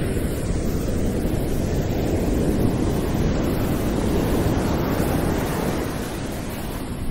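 Small sea waves washing and foaming over rocks at the water's edge, a steady rushing surf that swells slightly in the middle.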